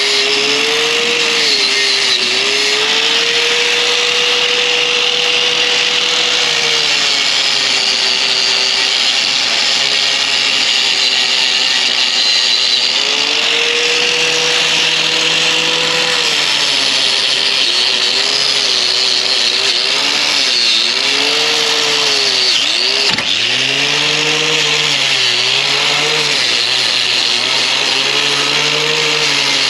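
Angle grinder with a wire wheel running without a break, scouring rubberized bedliner off a steel vehicle frame. The motor's whine sags in pitch each time the wheel bites, several times toward the end and most deeply about two-thirds of the way through.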